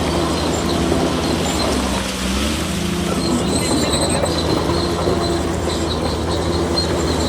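Bulldozer working: its diesel engine runs steadily under load while the steel crawler tracks squeal and clank. The engine note dips briefly about two seconds in, then picks back up.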